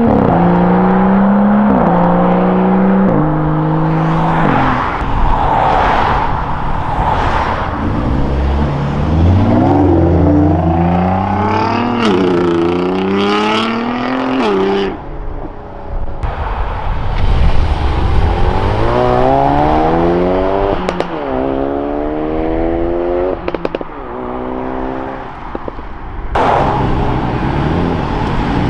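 Modified cars accelerating away one after another, their engines revving up and dropping in pitch at each gear change, several in turn.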